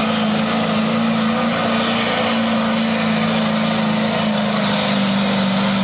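Work stock pickup truck's engine running hard at high, steady revs while pulling the weight sled, its pitch sagging slightly near the end.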